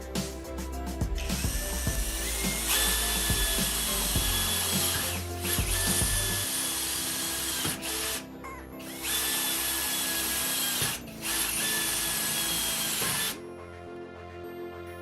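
An electric power tool's motor runs in four bursts of a few seconds each, with a steady high whine that steps up in pitch as it gets up to speed on the first run. Background music plays underneath.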